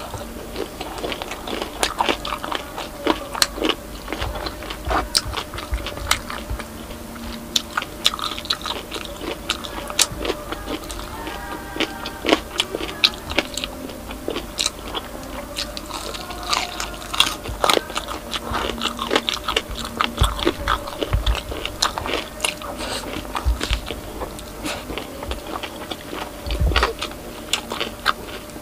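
Close-up crunching and chewing of crispy pata, deep-fried pork knuckle with crackling skin, in many short sharp crunches.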